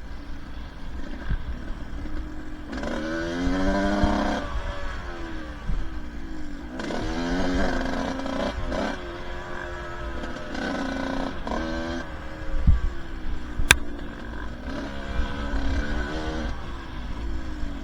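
Two-stroke dirt bike engine revving up and falling back again and again while riding a trail, with knocks from the bumpy ground and a sharp click about fourteen seconds in.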